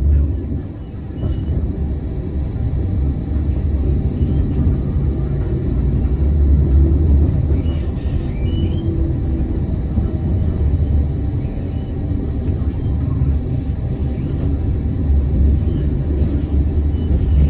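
Amsterdam tram in motion, a steady low rumble from its wheels on the rails and its running gear, with a few faint short squeaks about halfway through.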